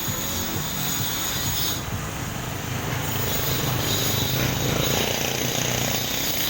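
Pressure washer running: a steady spray hiss over the low hum of its pump motor.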